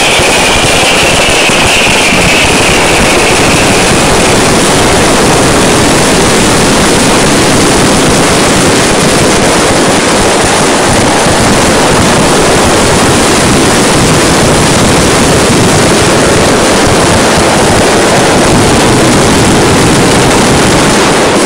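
Continuous barrage of firework rockets and firecrackers bursting at close range, a dense unbroken crackle so loud it overloads the phone's microphone into a steady roar. A high whistle fades out in the first few seconds.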